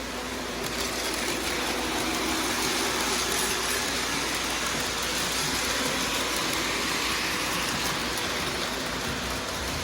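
Freight train rolling past: a steady rushing rail noise that grows a little louder about a second in and then holds.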